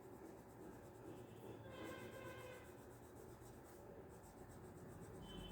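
Faint scratching of a colour stick being rubbed on paper while filling in an area with yellow.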